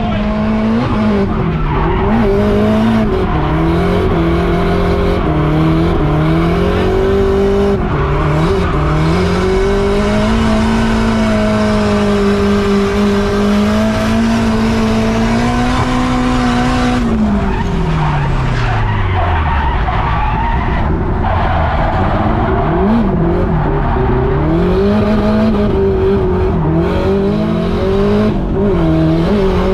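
Turbocharged Nissan Silvia drift car's engine held high in the revs, its pitch rising and falling through the slides, over tyres squealing and skidding. About 17 s in the revs fall away sharply, then climb again.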